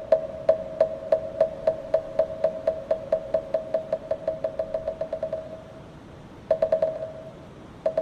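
Moktak, the Korean Buddhist wooden temple block, struck with a mallet: about two strikes a second that speed up into a fast roll and die away about five and a half seconds in, then two short quick flurries of strikes near the end. Each strike rings at the same pitch.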